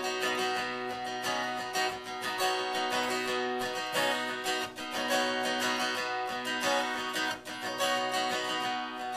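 Acoustic guitar strummed in a steady rhythm, playing the instrumental intro of a song before the vocal comes in.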